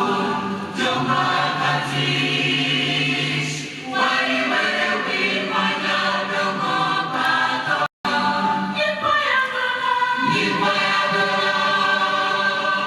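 A choir singing together in sustained held chords. The sound cuts out completely for a split second about eight seconds in.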